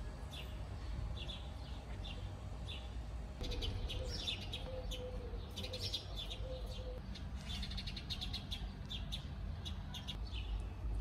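Small birds chirping: short, high chirps repeating a couple of times a second, with busier stretches of twittering in the middle, over a low steady rumble.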